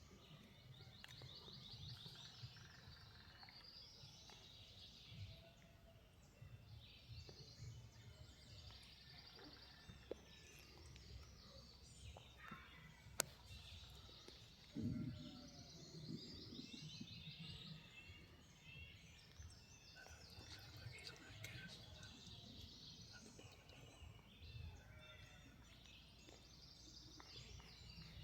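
Faint songbirds singing repeated trilled phrases over a low rumble of wind and background noise, with one louder low thump or call about fifteen seconds in.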